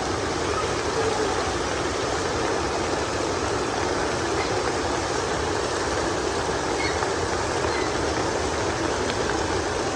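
Steady heavy rain falling, an even rushing hiss with no breaks.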